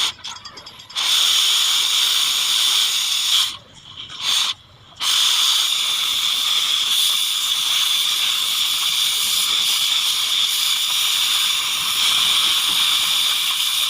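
Oxy-fuel gas cutting torch hissing steadily as it cuts steel. The hiss starts about a second in, breaks off twice briefly around four seconds, then runs on without a break.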